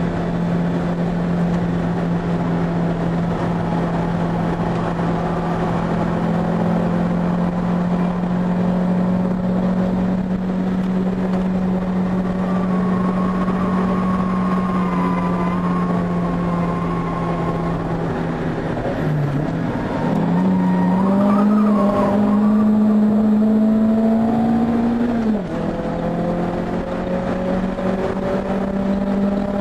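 Proton Satria Neo's four-cylinder engine running hard, heard from inside the cabin on track. Its drone holds and slowly sags, dips briefly a little past halfway, climbs, then drops abruptly near the end and climbs again.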